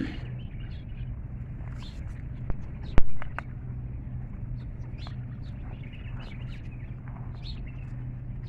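Small birds chirping here and there over a steady low hum, with one sharp click about three seconds in.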